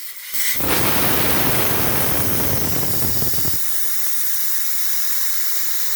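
Air hissing out of a car tyre's valve stem with the valve core removed, deflating the tyre so it can be broken from the rim. It starts about half a second in with a loud, rough rush, then thins to a steadier high hiss after about three and a half seconds.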